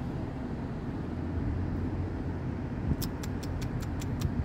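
Vehicle engine running with a steady low rumble while moving slowly along the sand. About three seconds in, a rapid run of about eight sharp clicks.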